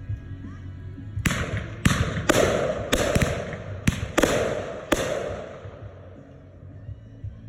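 Consumer fireworks going off: a quick run of about seven or eight sharp bangs over some four seconds, each trailing off, starting about a second in.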